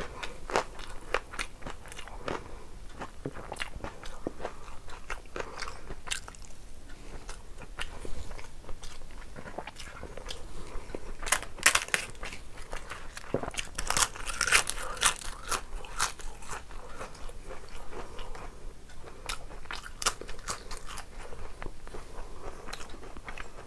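Eating sounds: chewing and biting throughout, with a run of sharp, crackling crunches about halfway through as a crisp papad (papadum) is broken and bitten.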